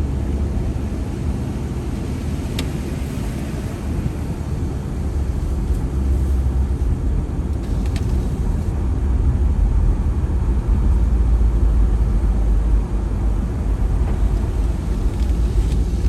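Steady road and engine rumble heard from inside the cabin of an Audi A4 quattro driving slowly on a snowy parkway, with two brief clicks.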